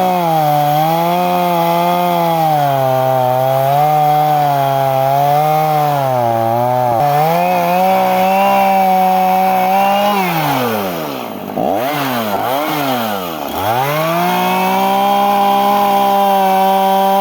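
Chainsaw engine running with a wavering pitch. About two-thirds of the way through, the pitch twice drops steeply and climbs back before it runs steady again.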